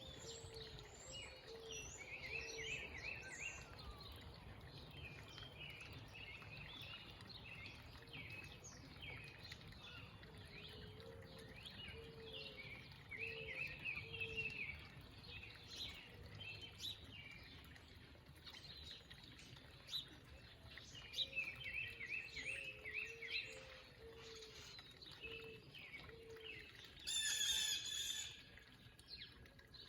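Backyard birds chirping and singing, with a low series of about five hooting notes heard three times and one louder harsh call near the end.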